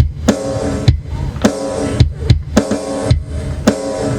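Instrumental backing music with a steady drum-kit beat, a little under two beats a second, over held pitched instrument tones.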